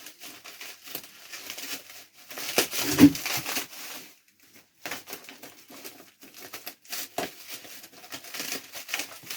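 Tight delivery packaging being torn and crinkled open by hand, with a louder tearing rush about three seconds in, a brief pause, then more crackling.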